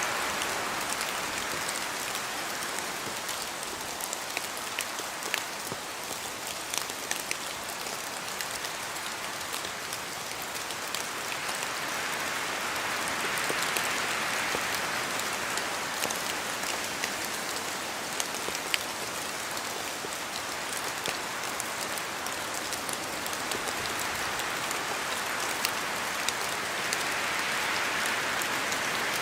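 Steady rain on forest foliage, with scattered louder drops falling from the trees and slow swells of wind about every fourteen seconds.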